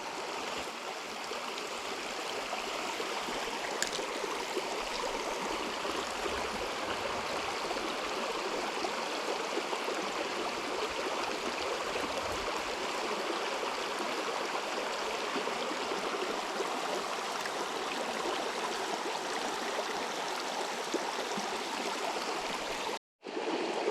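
River water flowing: a steady, even rush that cuts out abruptly for about a second near the end.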